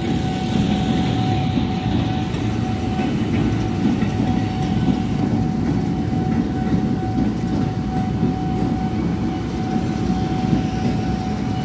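A KRL Commuter Line electric train passes over the level crossing at low speed, held back by a speed restriction for track works. Its wheels and running gear give a steady, even rumble, and a steady high tone runs through it.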